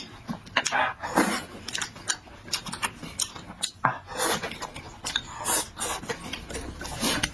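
A person eating close to the microphone: irregular wet chewing and lip-smacking clicks with a few short noisy bursts of slurping or breathing.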